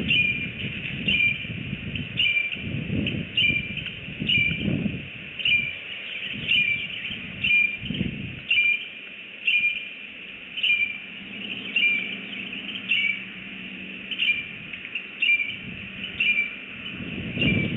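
A bird repeating a short chirp over and over, about twice a second, with a few brief gaps. Irregular bursts of low rumble come and go beneath it.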